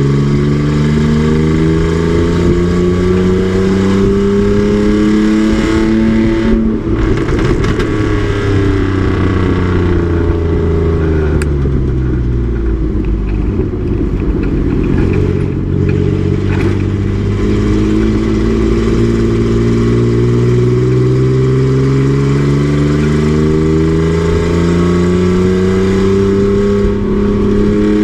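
Race truck's engine under load: its note climbs for about six seconds, drops as the throttle comes off and falls away, then climbs slowly and steadily again through the second half as the truck accelerates.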